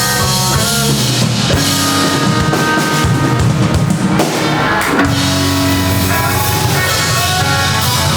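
Live blues band playing a slow blues, instrumental: electric guitar lines over drum kit and bass.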